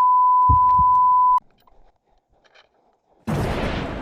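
A steady single-pitch beep tone that cuts off abruptly about a third of the way in, followed by near silence. Near the end a sudden loud burst of noise begins and fades.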